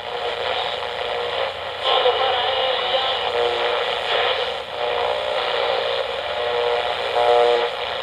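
A train sound effect from an old radio broadcast: continuous rushing, mechanical noise with some wavering tones in it, muffled and narrow in range like an old transcription recording.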